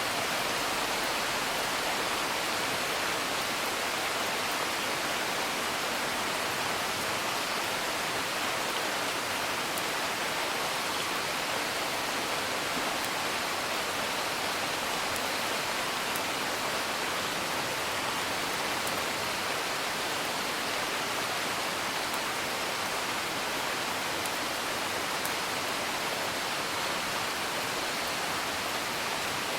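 Steady rain, a dense even hiss, with occasional faint crackles of a wood fire.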